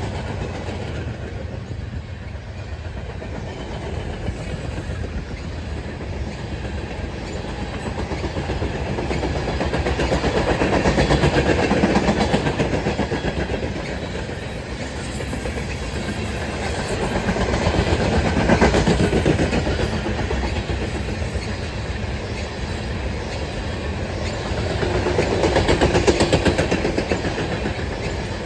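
A freight train's cars rolling past with a steady rumble and wheels clacking over rail joints. The noise swells louder three times: about a third of the way in, around the middle, and near the end.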